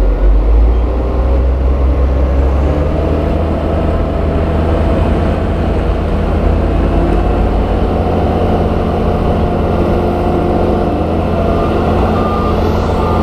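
Heavy diesel engine of earthmoving equipment running steadily under load. About three seconds in, the deep rumble eases and the engine note steps up in pitch.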